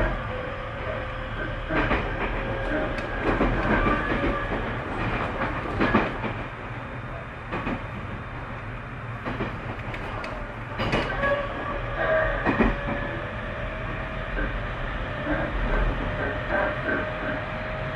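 Interior running sound of a Tobu 30000 series electric multiple unit at speed. The steady rumble carries a motor whine whose pitch rises slightly in the second half, with irregular clicks from the wheels passing rail joints.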